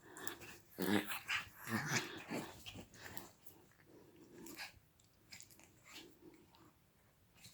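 A dog making a string of short growling noises, loudest in the first few seconds and then fainter.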